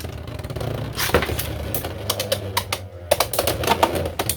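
Two Beyblade X spinning tops, Hells Scythe and Dranzer Spiral, whirring and clashing in a plastic stadium: a dense rattle of rapid clicks and hard knocks. The clicking thins briefly about three seconds in, then sharp strikes come again.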